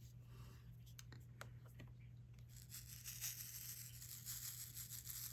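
Diamond-painting work: a few light ticks of small resin drills and the drill pen, then a scratchy rustling from about halfway through that lasts a few seconds.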